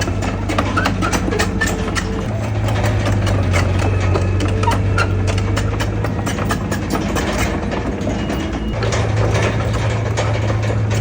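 Heavy earthmoving machine's diesel engine running steadily, with frequent clanks and rattles over it; its note shifts about two seconds in and again near the end.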